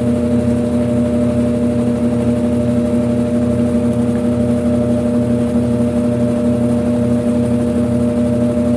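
Brastemp 5 kg washing machine running: a loud, steady motor hum with a regular low pulsing underneath.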